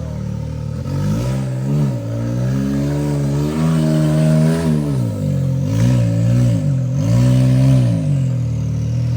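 Side-by-side UTV engine revving in repeated bursts while crawling over rocks: about four rises and falls in pitch, the longest in the middle, between short drops back toward idle.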